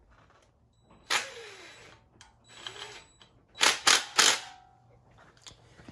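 A phone falls and clatters onto the floor: a sudden scraping rattle about a second in, then a cluster of three loud sharp knocks a little after halfway.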